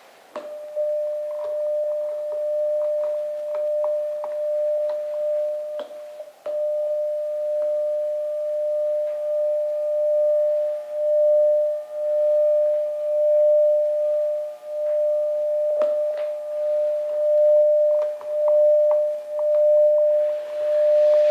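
A steady electronic tone, single-pitched and mid-high, broken by scattered clicks. It cuts out briefly about six seconds in, and in the second half its loudness swells and dips about once a second.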